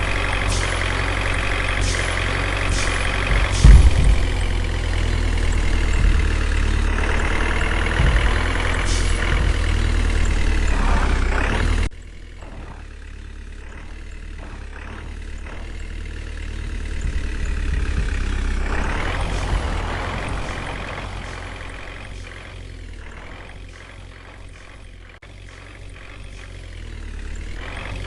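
Truck engine running, its pitch rising and falling with engine speed, with a few sharp clicks in the first seconds. The sound drops abruptly about twelve seconds in and carries on quieter.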